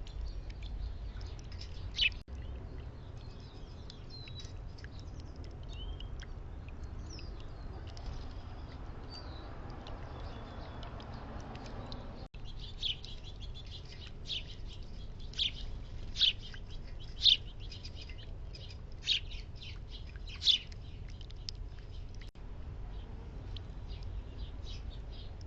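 Small backyard songbirds chirping: short, sharp chirps, sparse at first and coming thick and loud in the second half. A soft rushing noise swells and cuts off about twelve seconds in, over a steady low background rumble.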